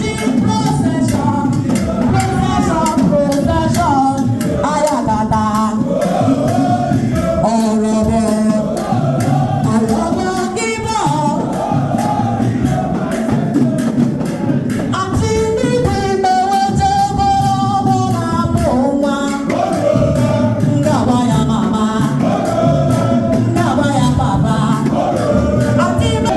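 A group of voices singing in chorus over music with percussion.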